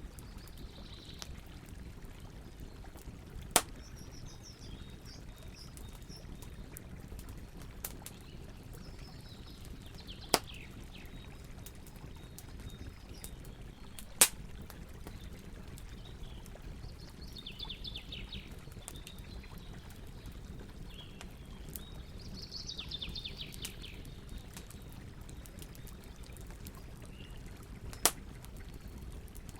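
Campfire burning with a steady low hiss and scattered crackles, four of them sharp loud pops. Birds chirp on and off in the background.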